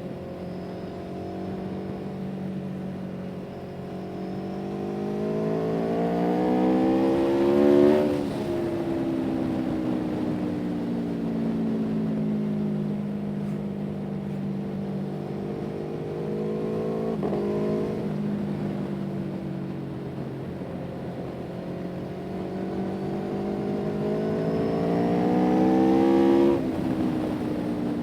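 Engine-driven vehicle passing close by twice: its engine note climbs in pitch and loudness as it approaches, then drops sharply as it goes past, about eight seconds in and again near the end, with a steadier engine drone in between.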